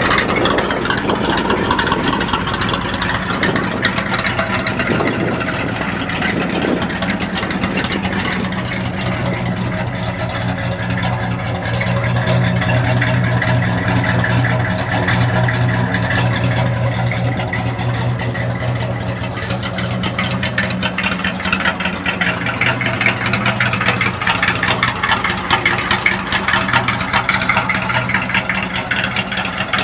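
1969 Oldsmobile F85's engine running at a steady idle, a low even drone with no revving.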